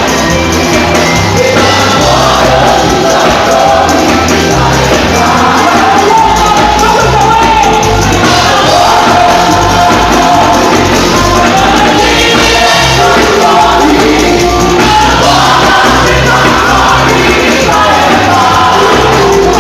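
Loud live gospel worship music: voices singing over a band, with a bass line moving note to note underneath, unbroken throughout.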